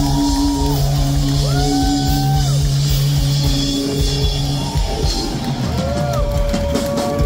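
Pop-punk band playing live in a club, through the PA: held low chords under a lead line of gliding notes, with the drums picking up about five seconds in and the crowd shouting.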